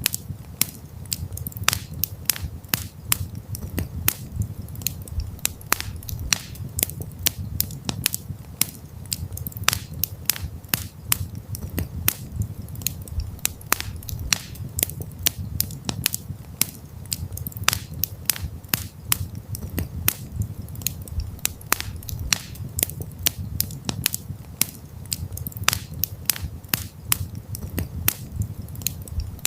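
Campfire crackling: many irregular sharp pops and snaps over a steady low rumble.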